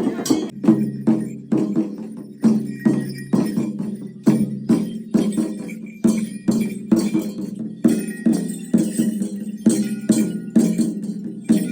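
Percussion playing a steady, even beat of about two strikes a second, each strike ringing briefly, with a light jingle above it.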